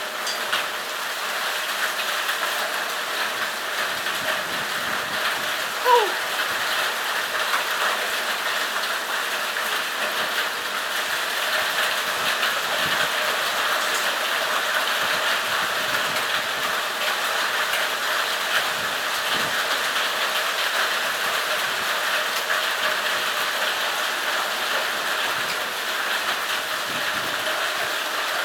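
Heavy storm rain pouring down steadily, a dense even patter of drops. A short falling squeak sounds once about six seconds in.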